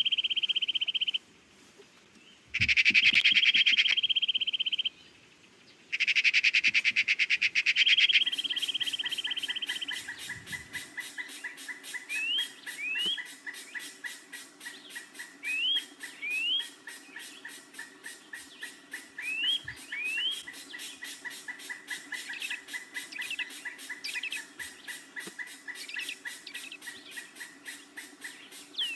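Birds calling: a high, rapidly pulsed trill in three bursts over the first eight seconds, then a fast ticking chorus with pairs of short rising chirps every few seconds.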